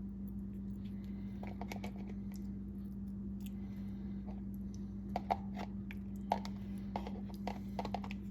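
Light, irregular clicks and taps of kitchen utensils being handled, coming more often in the second half, over a steady low hum.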